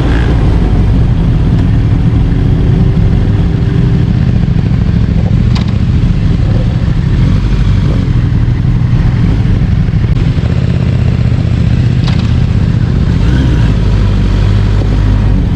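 Motorcycle engine running steadily with a deep, even low rumble, and a couple of brief clicks about five and twelve seconds in.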